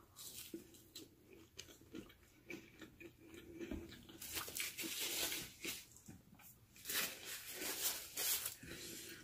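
Close-up chewing of a crunchy McDonald's hash brown, with wet mouth clicks and crunches. Near the end comes a stretch of paper wrapper rustling.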